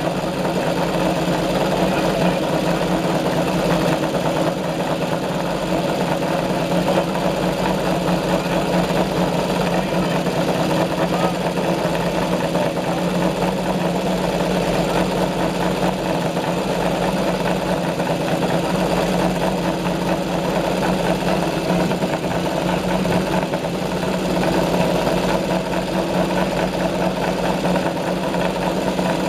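2014 PBM Aprilia MotoGP race bike's V4 engine idling steadily while it warms up.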